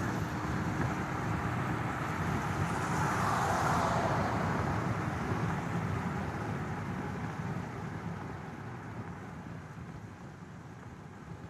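Road and engine noise of a moving car. It swells to its loudest about three to four seconds in, then slowly fades.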